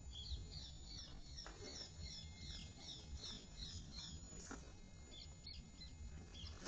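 A small bird singing faintly: a quick run of short high chirps, about three to four a second, that stops about two-thirds of the way through, over a faint low rumble.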